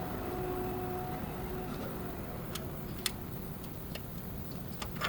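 A few sharp, separate clicks over a steady low background rumble.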